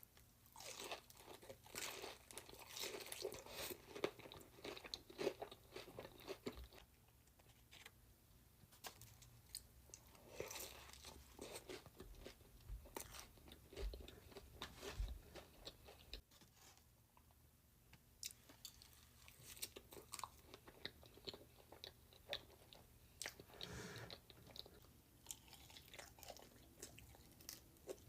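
Close-miked eating: bites of crunchy food and chewing, in irregular crackly strokes with short quieter pauses between bites.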